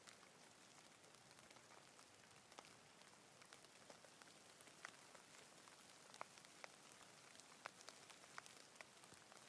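Faint, light rain: an even hiss with many separate drops striking close by, scattered irregularly.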